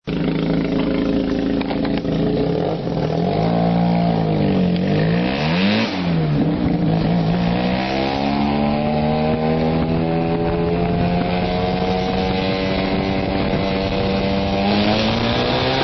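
Rotary (Wankel) engine of a VAZ-2108-based Batmobile replica running. Its pitch swings down and back up a few seconds in, holds steady through the middle and rises again near the end.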